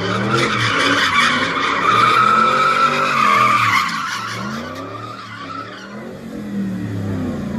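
Car engine revving up and down over and over while its tyres squeal, as in a doughnut or burnout. The squeal is loudest for the first four seconds and then dies down while the engine keeps revving.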